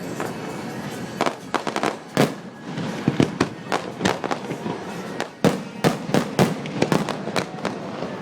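Fireworks bursting: an irregular string of sharp bangs and crackles, coming thick and fast in the second half.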